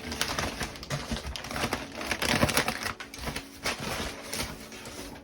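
A packaging bag being opened and handled: dense, irregular crinkling and rustling with many small clicks.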